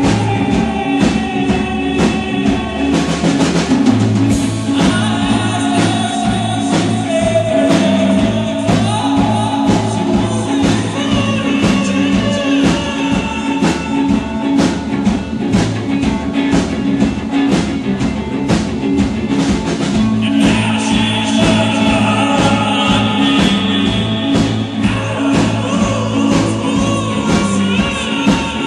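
A rock band playing live, with vocals over drum kit, bass and guitar, and a pulsing bass line.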